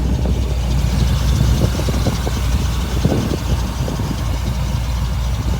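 Chevrolet 454 SS pickup's 7.4-litre big-block V8 idling steadily.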